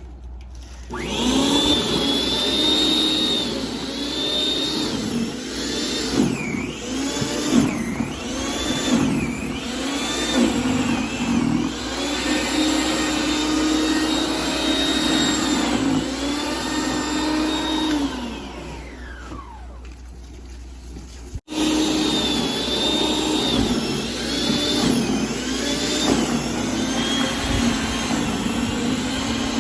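Snowblower running, its pitch dipping and recovering over and over. About two-thirds of the way through it winds down with a falling whine, then after an abrupt break it is running again.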